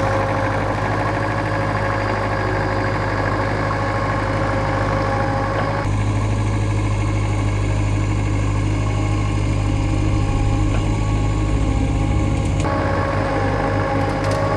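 Bobcat skid-steer loader engine running steadily, a low hum that shifts abruptly about six seconds in and again near the end.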